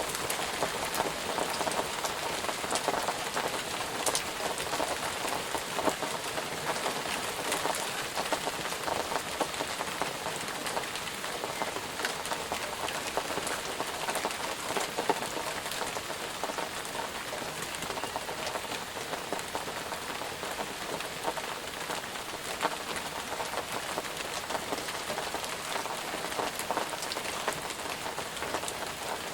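Steady rain falling on a surface, a continuous hiss dotted with many individual drop ticks.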